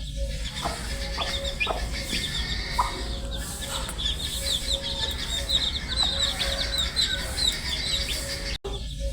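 A brood of baby chicks peeping continuously, many short high chirps overlapping, with now and then a lower call. The sound cuts out for an instant near the end.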